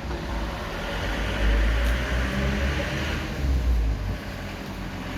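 Road traffic: a steady low rumble with a wider swell of noise about a second and a half in.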